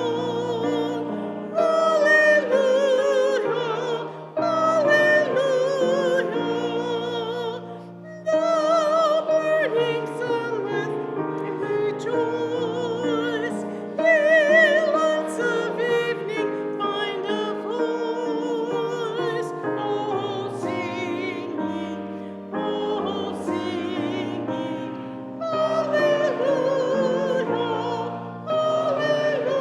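Congregation singing a hymn, phrase by phrase with short breaths between lines, the voices singing with a wide vibrato.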